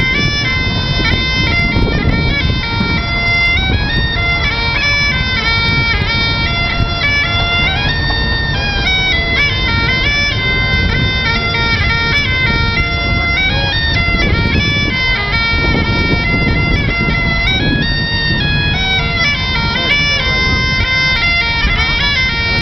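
Bagpipes playing a tune: the melody steps up and down over steady, unbroken drones, with a low rumble underneath.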